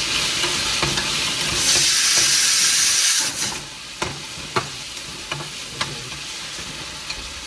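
Chopped onion and garlic frying with cumin in hot oil, sizzling. The sizzle is loud for about two seconds, then settles lower, with a few sharp knocks of the stirring spoon against the pan.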